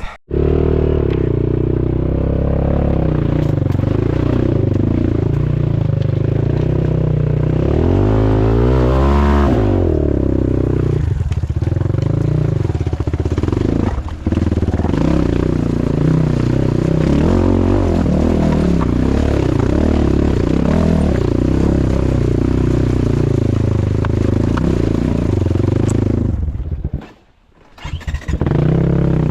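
Off-road motorcycle engine running under load on a trail, the throttle opening and closing so the pitch rises and falls, with one clear rev about a third of the way in. The engine note dips briefly near the middle and drops out for about a second near the end.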